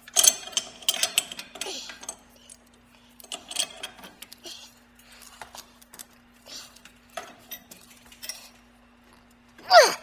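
Clinks and rattles of a steel pipe wrench on threaded pipe fittings as a stuck fitting is forced, densest in the first two seconds, over a steady low hum. Near the end comes one loud, short sound that falls in pitch, like a strained grunt of effort.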